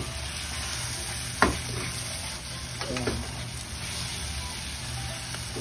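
Seafood and vegetables frying in butter in a wok, sizzling steadily while a wooden spatula stirs and turns them. A sharp knock sounds about one and a half seconds in.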